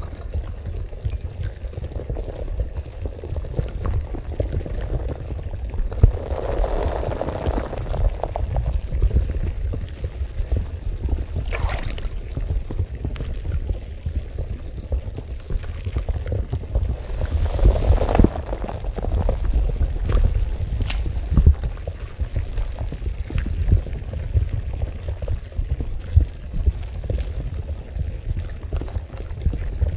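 Water of a bubbling carbonated hot-spring bath, churning steadily over a deep low rumble, with louder rushes of water about seven and eighteen seconds in.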